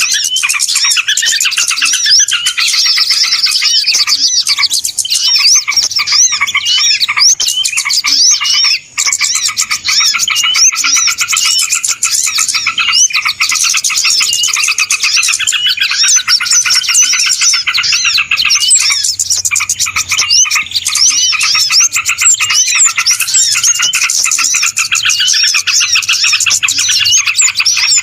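Bird-lure recording of many small birds chirping and twittering at once in a dense, busy chorus. The sound drops out for an instant about nine seconds in.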